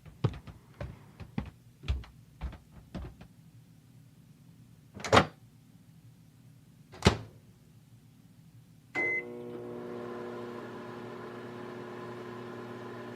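Light clicks and taps, then two loud sharp knocks about two seconds apart. A microwave oven then beeps once and starts running with a steady hum, typical of heating something up.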